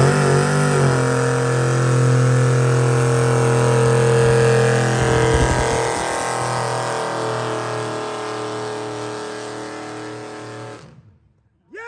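A classic muscle car's engine held at high, steady revs during a burnout, with its rear tyres spinning. The engine fades slowly as the car pulls away and cuts off abruptly near the end.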